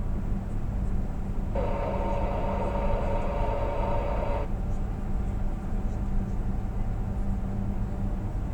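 Steady low engine and road drone of a truck on the move, heard from inside the cab. About a second and a half in, a buzzing tone with many overtones cuts in, holds for about three seconds and stops abruptly.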